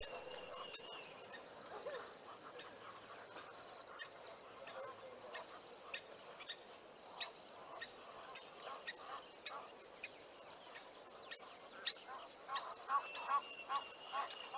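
Wild birds calling: many short, high chirps throughout, with a quick run of honking calls near the end.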